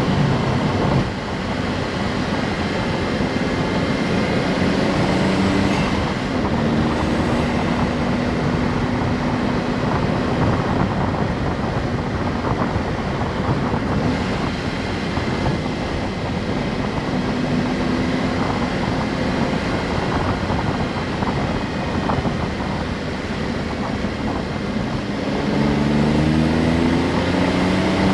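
Honda S660's small turbocharged three-cylinder engine and road noise while driving, the engine note climbing in pitch near the end as the car accelerates.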